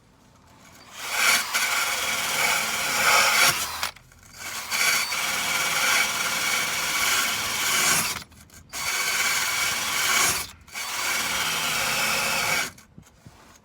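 Cordless drill spinning a wire brush against the car's underbody, scrubbing off surface rust in four runs of a few seconds each with short pauses between.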